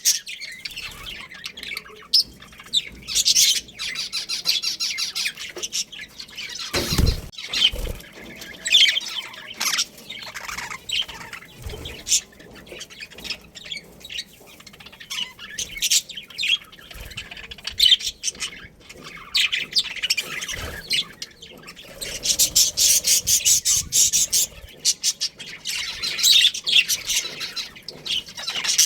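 A flock of budgerigars chirping and chattering, with many short high chirps and squawks and several dense runs of rapid warbling chatter. There is a single low thump about seven seconds in.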